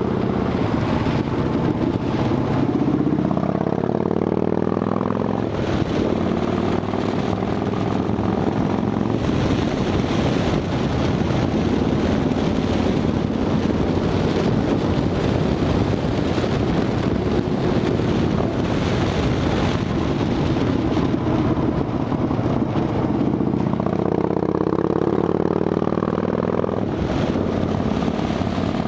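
Harley-Davidson Dyna Fat Bob's V-twin engine running through Vance & Hines Shortshots exhaust with quiet baffles. The pitch rises as it accelerates in the first few seconds and again about 24 seconds in, and holds steadier in between.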